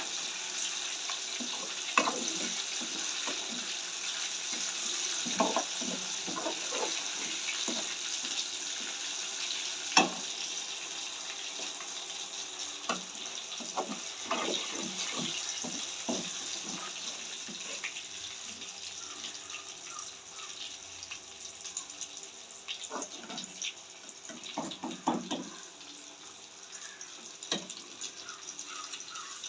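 Chicken frying in a pan: a steady sizzle that grows gradually quieter, with scattered knocks and scrapes of stirring.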